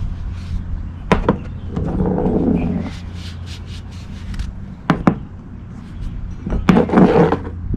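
Brake caliper slide pins being rubbed and scraped clean by hand, in two rough stretches of about a second each, with a few sharp clicks of metal parts knocking. A steady low hum runs underneath.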